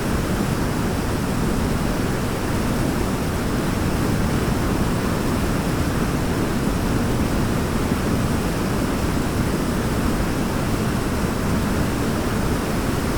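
Forest waterfall: water falling and splashing in a steady, unbroken rush, heaviest in the low range.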